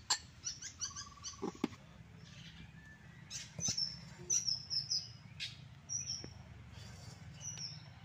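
Small birds chirping in repeated short, high, falling notes, busiest in the middle, with a few sharp clicks and knocks over a low steady background.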